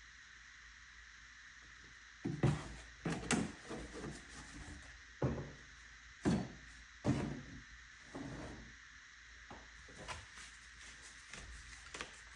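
A series of sharp knocks and clunks from plastic motor-oil bottles being handled while refilling an engine with oil, most of them between about two and eight seconds in, over a faint steady hiss.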